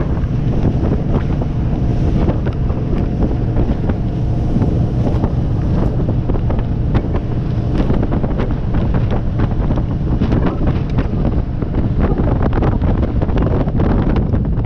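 Wind buffeting the microphone aboard a Christina 25 motorboat under way, over a steady low rumble of the boat's engine and hull running through the water, with constant crackling from the wind.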